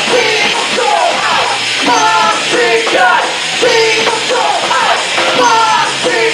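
A rock band playing loud J-rock live, with a shouted vocal or lead line that repeatedly slides down in pitch over the full band.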